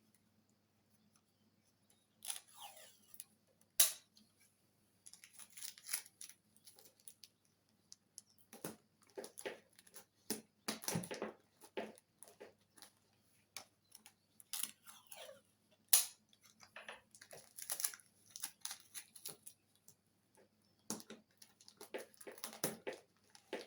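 Hands handling the parts of a model airplane: irregular clicks, taps and rustling scrapes as light parts are picked up, turned and pressed.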